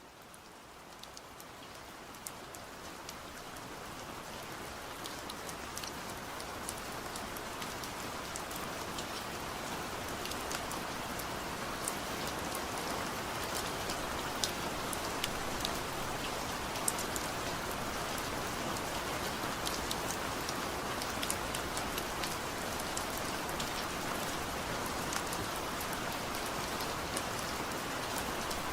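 Heavy rain falling steadily, with a dense hiss and many individual drops ticking on a surface. It fades in over the first several seconds and then holds steady.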